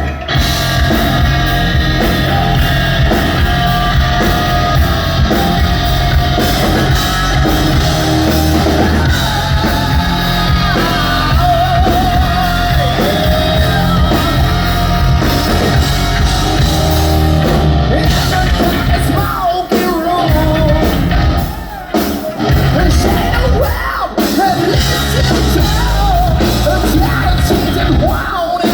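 Live hard rock band playing loudly, with drums, bass and a singer's voice over the top.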